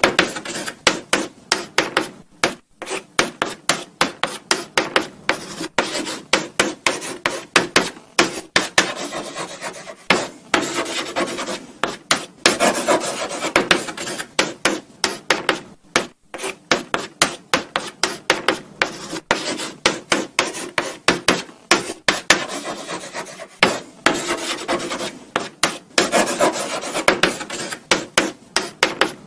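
Chalk writing on a blackboard: quick, irregular scratchy strokes, several a second, with short pauses between bursts of writing.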